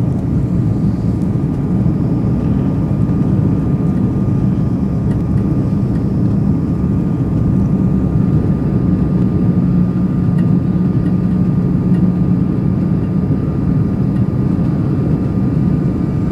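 Steady roar of an Airbus A340-300 in flight, heard from inside the cabin: the four CFM56 turbofans and the airflow, with a faint steady whine.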